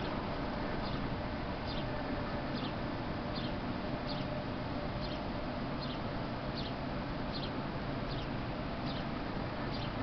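A small bird calling the same short, high, falling note over and over, about once every 0.8 seconds, over a steady background hiss.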